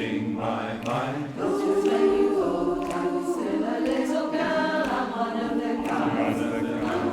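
Amateur mixed choir singing unaccompanied in harmony, with sustained notes.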